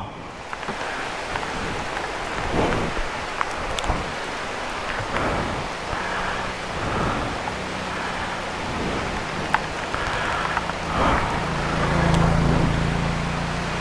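Steady rushing noise on the camera's microphone while riding the 2022 Aprilia Tuono V4 Factory, with the bike's V4 engine faint beneath it and swelling about twelve seconds in.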